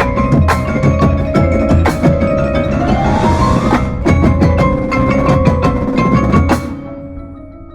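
Marching drumline and front ensemble playing together: sharp drum hits over ringing mallet-keyboard notes, with a rising run and a cymbal swell about three seconds in. The music stops on loud hits a little after six seconds, leaving soft ringing notes at the end.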